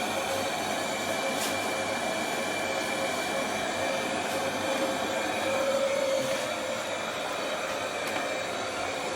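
Ultenic robot vacuum running: a steady fan whine with air rushing, holding an even level throughout.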